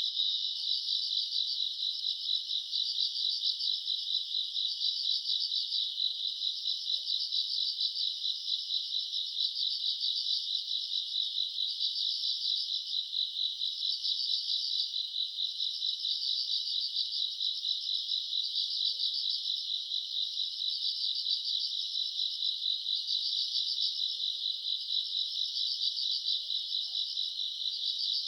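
Night chorus of crickets and other grass insects: a dense, continuous high trilling, with a fainter, higher pulsing song repeating every couple of seconds.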